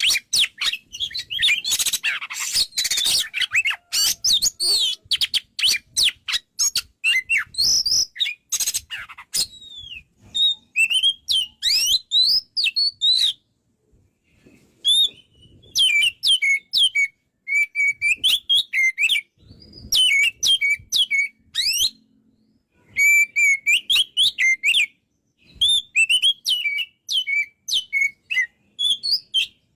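Oriental magpie-robin (kacer) in full song: a loud, varied run of rapid whistles, chirps and sweeping notes in bursts, broken by short pauses about halfway through and again a little later.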